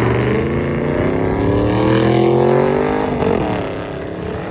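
A high-performance car engine accelerating, its pitch climbing steadily for about three seconds, then dropping sharply as the sound eases off.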